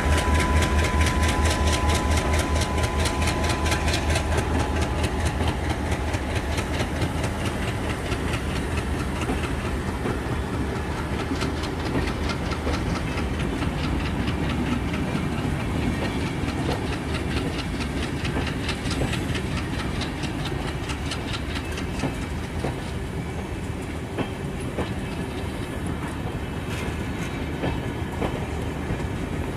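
A passenger train's coaches roll past, their wheels clacking rhythmically over the rail joints. The clacks come more slowly as the train decelerates into the station. A low locomotive rumble and a thin high whine are heard in the first few seconds.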